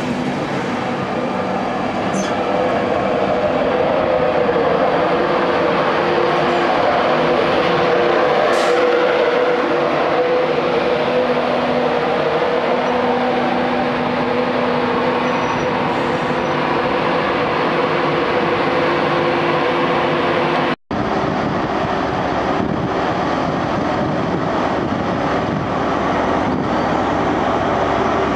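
An electric express train moves along a station platform with a steady rumble and several steady whining tones. About two-thirds of the way through, a sharp break gives way to the steady running of a High Speed Train diesel power car.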